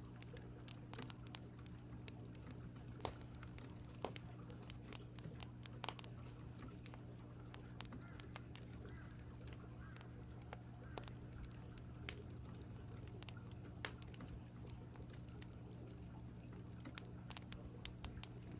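Faint, irregular light clicks and crackles from keyboard typing and a wood fire, over a steady low hum.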